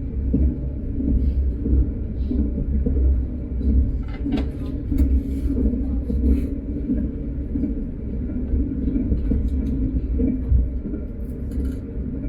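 Train running at speed: a steady low rumble with a few light clicks scattered through it.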